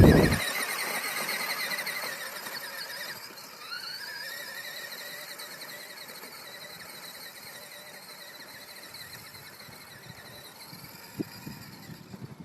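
Small dirt bike engine revving high and fading as the bike pulls away, with a rise in pitch about four seconds in as it revs again, then dying away into the distance.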